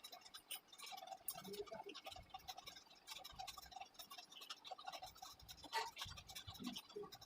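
Faint irregular scratching and rustling of paper being handled.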